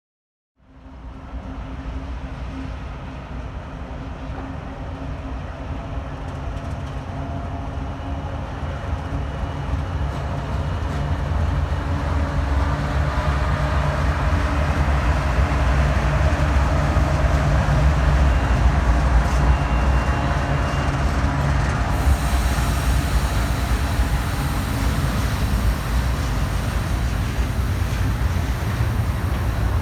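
Diesel freight train running by: a steady low rumble with a droning engine tone, growing louder toward the middle. About two-thirds of the way through, a hiss comes in suddenly and stays.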